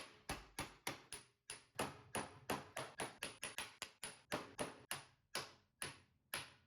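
A hammer striking metal over and over at about three blows a second, each blow with a short metallic ring, as it works on stubborn cheese head screws holding a VW Type 4 engine's sheet metal.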